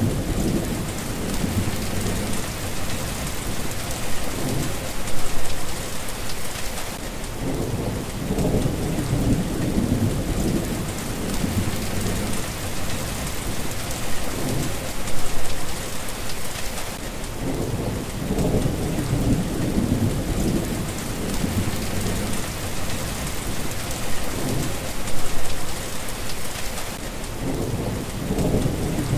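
Steady rain, with low rolls of thunder swelling and fading several times.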